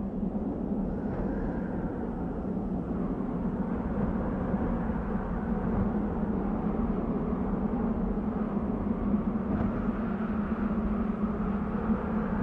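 Desert wind blowing: a steady rush with a low hum underneath and a faint moaning tone that rises and falls, swelling slightly toward the end.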